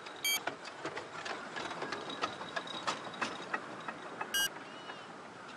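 Miniature railway train passing close by: its wheels clack over the rail joints in an uneven run of sharp clicks, about two to three a second. Two brief high squeals cut through, one just after the start and one near the end.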